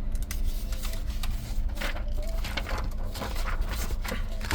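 Paper rustling and crackling in short bursts as printed booklet pages are handled and turned, busiest in the second half, over a steady low rumble.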